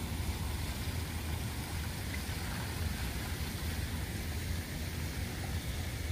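Steady hiss of falling rain, with a constant low rumble underneath.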